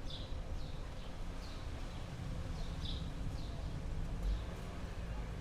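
A small bird giving short, high, slightly falling chirps, repeated about every half second to a second, over a steady low rumble.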